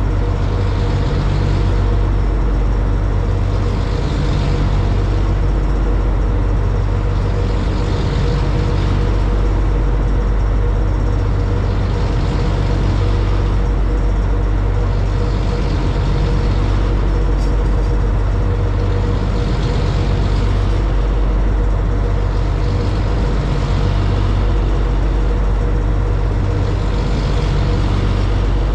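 Engines of a high-speed passenger boat droning steadily underway, with water rushing past the hull in a hiss that swells and fades about every two seconds.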